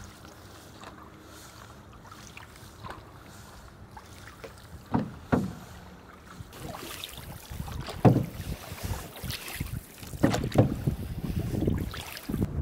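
Canoe paddling: a wooden paddle dips and pulls through lake water, with sharper splashes about five, eight and ten seconds in. Water hisses along the canoe's hull, fuller in the second half, with light wind on the microphone.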